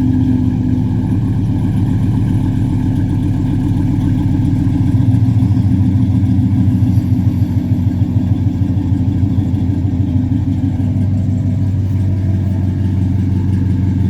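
GM 5.3-litre V8 through long-tube headers and a Flowmaster 44 dual exhaust, idling shortly after a cold start with a deep, steady rumble. It gets a little louder and rougher from about five seconds in.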